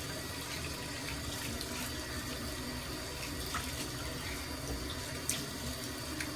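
Tap water running steadily into a sink, with a few faint splashes as the face is washed.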